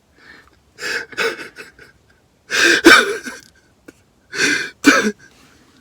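Three breathy vocal bursts from a person: one about a second in, a louder one near the middle and another near the end.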